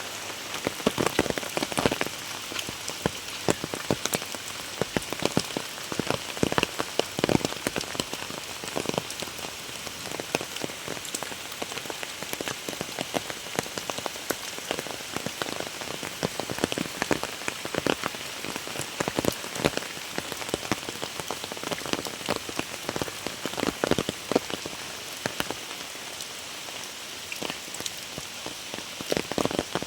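Very heavy rain pouring steadily, with frequent loud individual drops and splashes striking close by.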